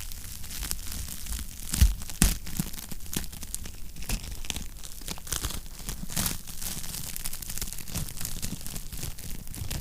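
Fire in a fireplace crackling: a steady run of small snaps and pops, with two louder pops about two seconds in.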